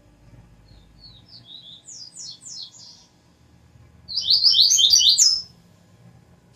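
Double-collared seedeater (coleiro) singing: a softer run of quick, high descending notes, then a louder, fast phrase of about a second and a half.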